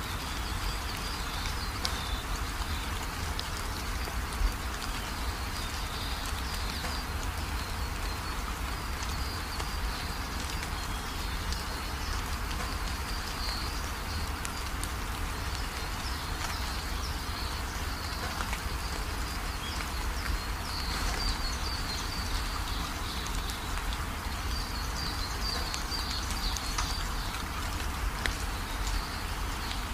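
Steady rain drumming on a corrugated roof, with runoff pouring off the roof edge and splashing below. An on-and-off high chirping sits behind the rain.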